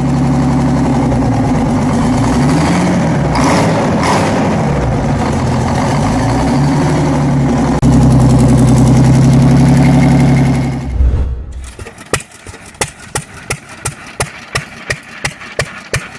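Detroit Diesel 71-series two-stroke diesel with its Roots blower, running loud and revving up and down, then holding a louder steady run before cutting off about eleven seconds in. After that comes a slow, even engine beat of about two to three exhaust pulses a second.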